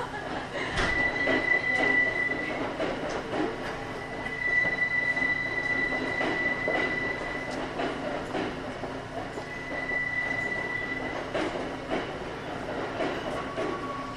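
Kintetsu 5800 series electric train running, heard from on board: a steady rumble of wheels on rail with scattered clicks over the rail joints. A high, steady wheel squeal comes and goes three times.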